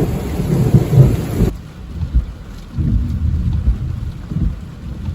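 Thunder rumbling low and long in a downpour, with steady rain. About a second and a half in, the higher hiss cuts out abruptly while the low rumble carries on in swells.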